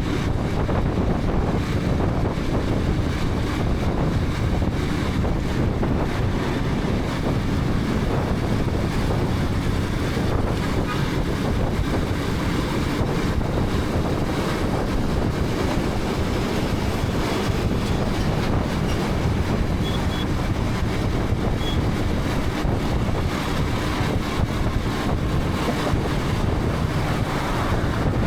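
KTM 250 Adventure's single-cylinder engine running at a steady road speed, largely buried under heavy wind noise buffeting the helmet-mounted camera's microphone.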